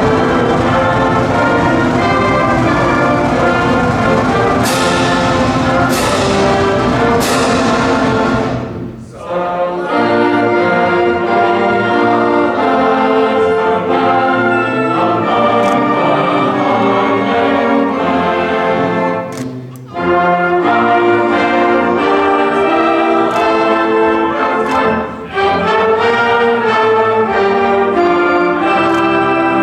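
A large high school marching band, led by its brass, plays in a gymnasium. Three cymbal crashes come about five, six and seven seconds in, and the music briefly drops out near nine and twenty seconds before carrying on.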